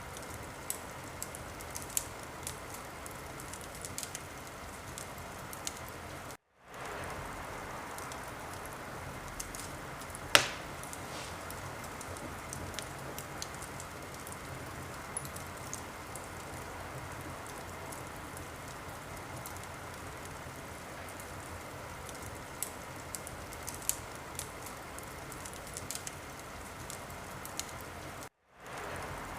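Wood fire crackling in a fireplace: a steady hiss with scattered sharp pops, and one much louder pop about a third of the way through. The sound cuts out for a moment twice, once early and once near the end.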